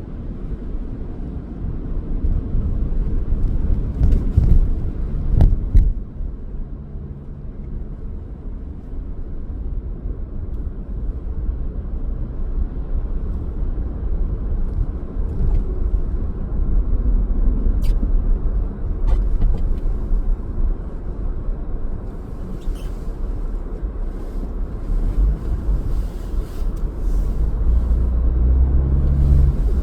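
Car driving on city streets: a steady low road and engine rumble, with a few short sharp clicks along the way and a heavier rumble near the end.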